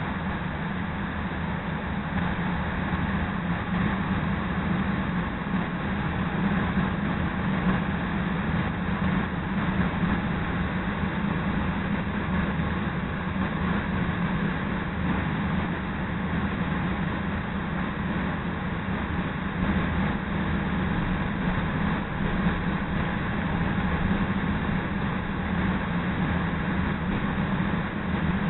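Chicago Transit Authority Red Line rapid-transit car running along the line, heard from inside the car as a steady rumble of wheels on rail and running gear.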